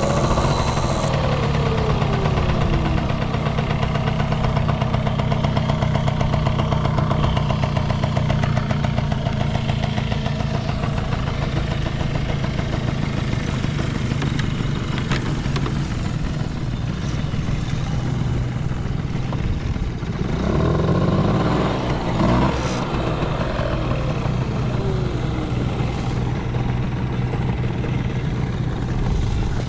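Yamaha Passol scooter's 50cc two-stroke single idling steadily. It settles from a throttle blip right at the start, revs up briefly about 21 seconds in, and drops back to idle. It runs with no abnormal noise and revs up freely, as the seller describes it.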